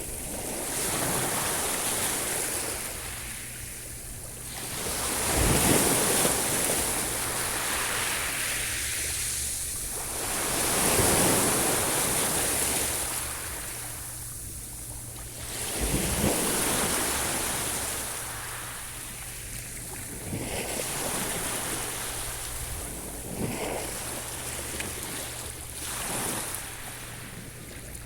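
Sea waves washing onto the shore, the surf swelling and ebbing in slow surges about every five seconds.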